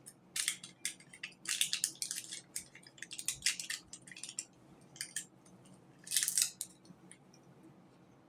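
Fast-food packaging being handled: quick crackling and crinkling bursts of paper and plastic wrappers, in bunches over the first six or so seconds.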